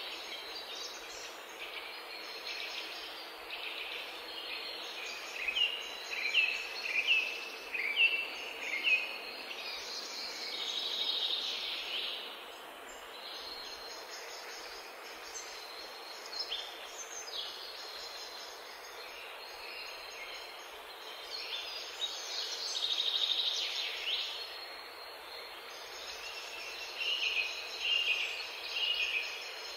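Songbirds chirping and singing in short runs of quick notes over a steady background hiss. The runs are loudest about six to nine seconds in and again near the end.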